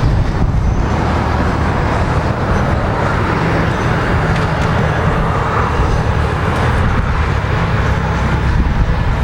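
Liquid-cooled V-twin engine of a 2007 Yamaha V Star 1300 idling steadily, a low, even rumble with no revving.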